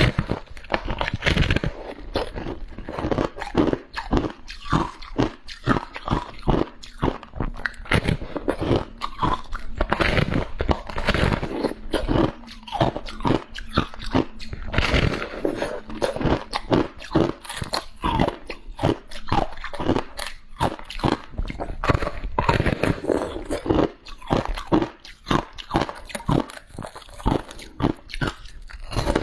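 Close-miked biting and chewing of soft, crunchy freezer frost: a dense, irregular run of crunches, several a second, with no pause.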